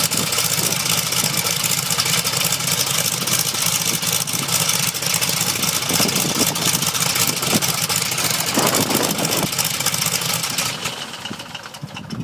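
Engine of a MOSA generator running on its first start-up after restoration, a fast, even run. Near the end the sound drops away and dies down.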